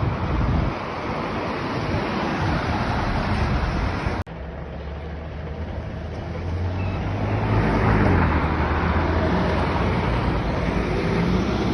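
Traffic passing on a busy road, a steady rush of tyre and engine noise. After a sudden break about four seconds in, a heavy lorry's low engine hum builds and passes close by.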